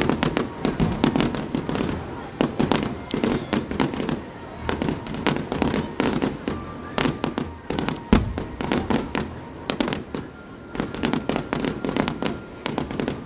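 Fireworks going off in quick, irregular volleys of sharp bangs and pops.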